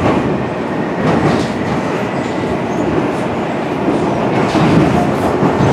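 East Rail line passenger train running along the track, heard from inside the carriage: a steady rumble of wheels on rail with occasional clicks.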